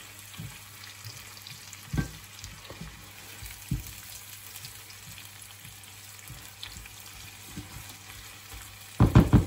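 Sliced apples with onion and garlic sizzling steadily in oil in a sauté pan as they caramelize. A spatula stirs them and knocks against the pan a few times, with a short loud clatter near the end.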